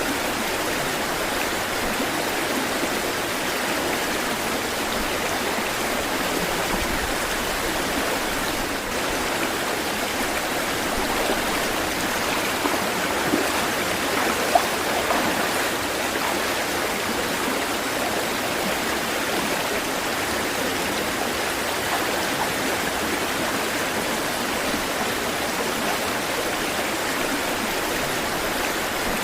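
Running water rushing steadily, like a stream or small waterfall, without the rise and fall of breaking waves. A few brief sharp sounds stand out about halfway through.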